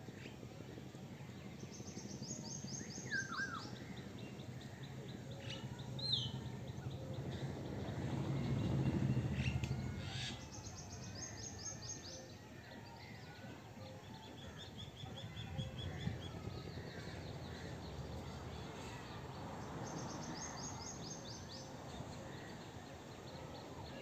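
Several birds chirping and singing, including a high, fast trill repeated three times, over a low steady background noise. A low rumble swells and fades about nine seconds in.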